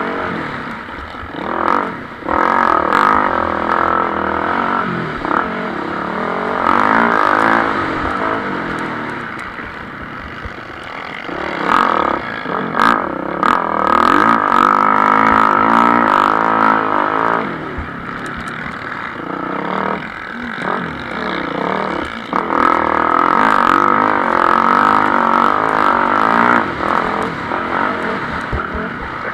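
MX1-class motocross bikes racing, engines revving up and down repeatedly through gear changes as they pass, with several bikes overlapping and swelling louder and fading in turn.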